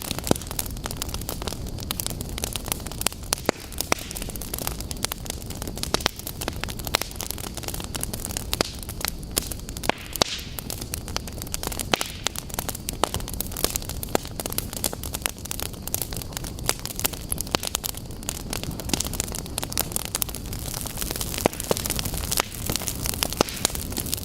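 Wood fire burning in a fireplace: steady low rumble and hiss with frequent sharp, irregular crackles and pops.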